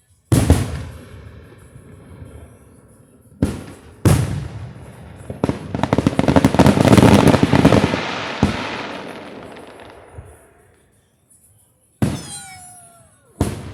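Fireworks going off: a sharp bang just after the start, two more around three and four seconds in, then a long dense crackle that swells and fades. Near the end comes a bang with a falling whistle, and another bang just before the end.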